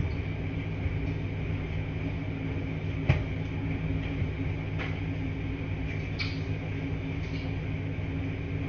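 Washing machines running in a laundry room: a steady low hum and rumble, with a few light clicks and knocks, the sharpest about three seconds in.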